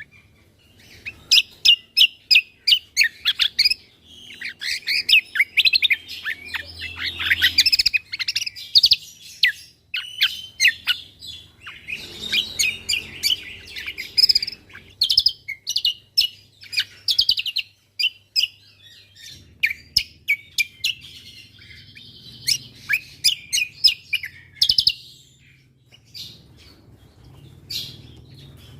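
Cucak kombo (kecial kombo) songbird singing a fast, varied song of high chirps and rapid-fire trills in bursts, with short pauses between phrases.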